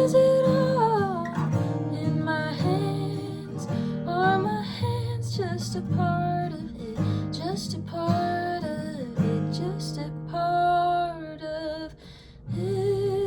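Acoustic guitar strumming chords while a woman sings a melody over it. The guitar and voice drop away briefly near the end, then come back in.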